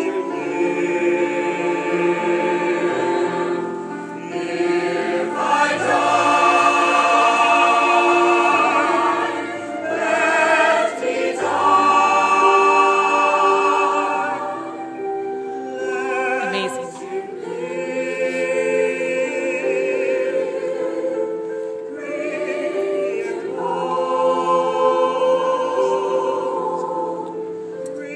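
A choir singing, with long held notes in phrases that swell and fade.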